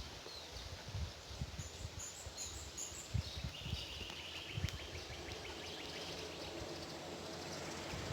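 White-eyes (pleci) calling: a quick run of short, high chirps about two seconds in, then a brief trill, over a steady outdoor hiss with irregular low thumps.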